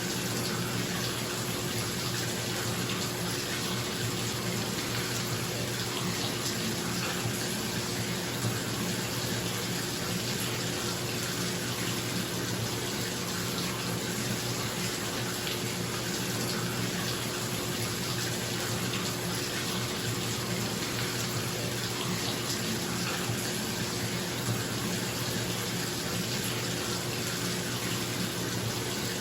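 Bathtub tap running into a filling tub, a steady rush of water, with a bathroom exhaust fan's steady hum underneath.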